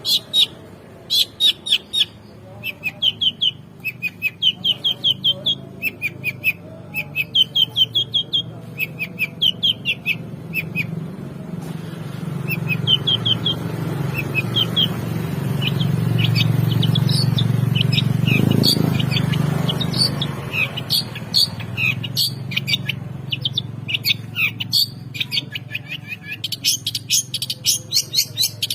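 Long-tailed shrike (cendet) singing busily: quick runs of short, sharp chattering notes, repeated phrase after phrase. A low rumble swells and fades in the middle.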